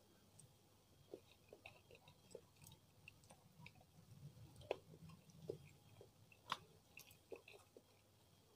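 Close-miked mouth chewing food: quiet, irregular wet clicks and smacks, with two sharper ones about halfway and about three-quarters through.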